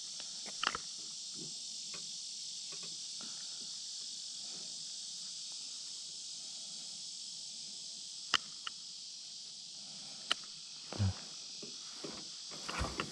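Steady, high-pitched chorus of insects buzzing, with a few sharp clicks and a short dull knock about eleven seconds in.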